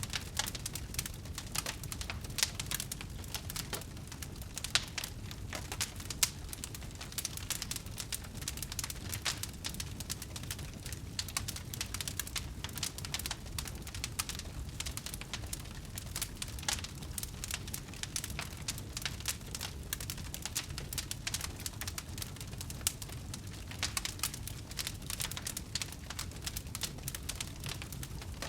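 Wood fire burning, with dense, irregular crackling and occasional louder pops over a steady low rumble of the flames.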